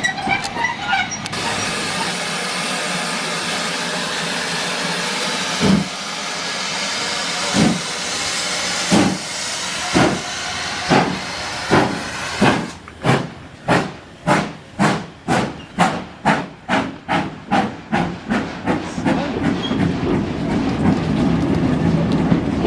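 Steam locomotive starting away: a long steam hiss, then exhaust chuffs that begin slow and quicken to about two a second. The hiss stops about halfway through, and the chuffs blend into a steady rumble of the train rolling near the end.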